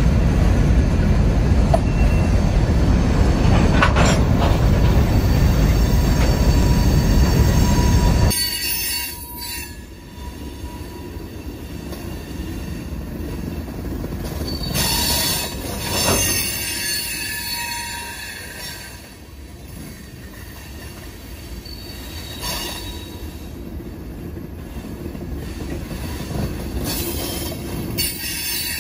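Freight train hopper cars rolling past, steel wheels on rail: a loud, steady rumble that drops suddenly about eight seconds in to a quieter rolling, with the wheels squealing on the rail now and then.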